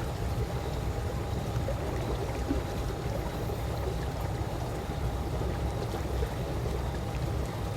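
Calm swimming-pool water moving gently: a steady low rumble with small, irregular splashes and a faint steady whine.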